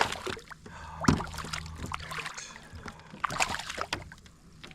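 Irregular knocks, rattles and small splashes of a just-caught walleye being handled aboard a fishing kayak, with one sharp knock about a second in.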